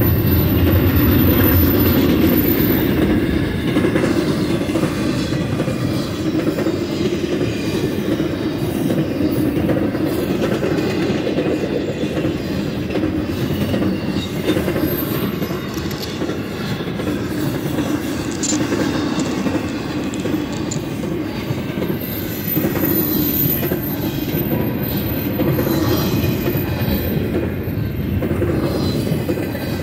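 Double-stack container well cars of a BNSF intermodal freight train rolling past: a steady rumble and clatter of steel wheels on the rails.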